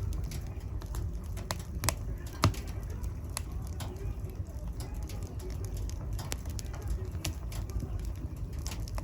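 Wood fire crackling in a fireplace: irregular sharp pops and snaps over a low steady rumble of the flames, with one louder pop about two and a half seconds in.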